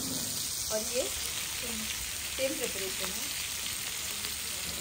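Rawa-coated fish slices and prawns sizzling steadily as they shallow-fry in oil on a large blackened tawa.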